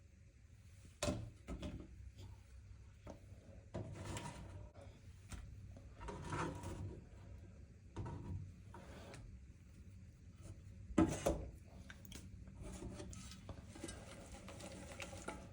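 Cut leeks being handled and put into a pot of melting butter: scattered light knocks and rubbing sounds, with the loudest knock about eleven seconds in.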